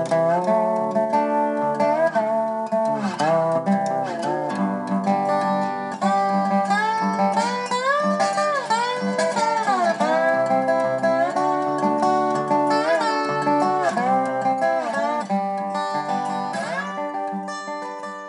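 Music: a slide guitar playing bending, gliding notes over acoustic guitar, in a country style, fading out near the end.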